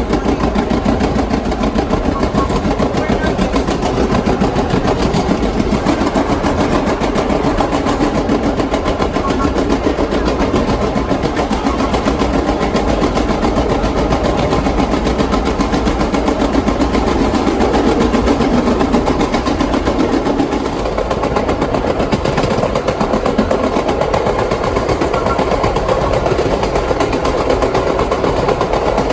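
Vintage R1/9 subway cars running: a loud, steady mechanical din with a fast, even clatter.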